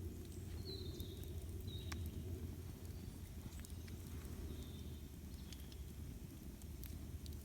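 Campfire burning: scattered sharp crackles and pops from the burning wood over a steady low rumble, with a few brief high chirps now and then.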